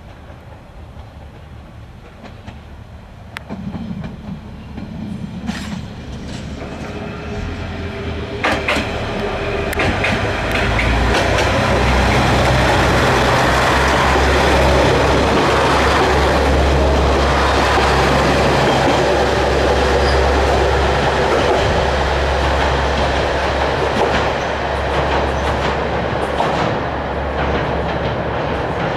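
Three-car Isumi 200' diesel railcar train coming up and running past: the engine drone builds over about ten seconds and holds loud, with the wheels clicking over rail joints, then eases slightly near the end.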